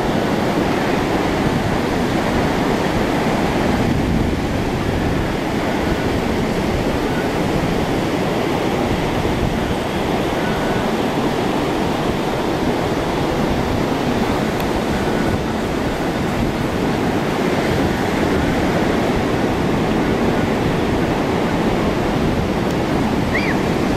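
Heavy ocean surf breaking on the beach in a steady, continuous rush: big waves raised by a hurricane offshore.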